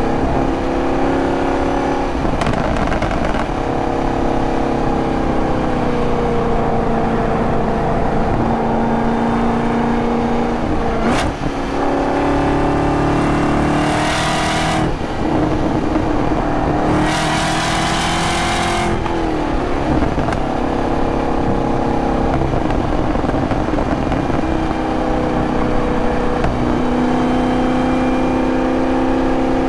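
2023 Camaro ZL1's supercharged 6.2-litre V8 driving through a canyon road, its note rising and falling with the throttle. There is a short break with a click about eleven seconds in, as at a gear change. It is followed by two hard accelerations with a rising high-pitched whine over the engine note about halfway through.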